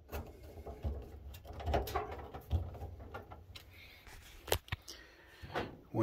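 Scattered knocks and clicks of hands and screws handling the metal panels of a dryer cabinet during reassembly. The sharpest click comes about four and a half seconds in.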